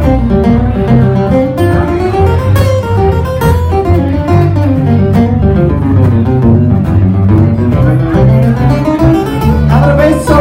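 Live bluegrass instrumental break: an acoustic string band with guitar and a low bass line, a lead instrument running up and down the scale.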